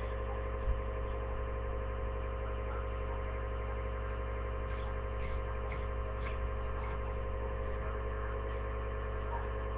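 A steady electrical hum made of many fixed tones, with a few faint ticks.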